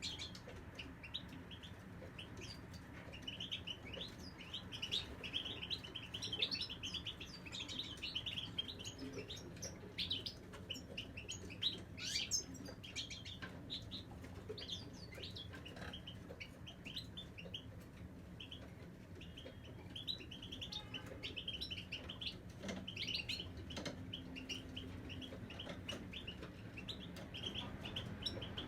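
Caged European goldfinches singing: a continuous, rapid twittering of short chirps and trills, with a low steady hum underneath.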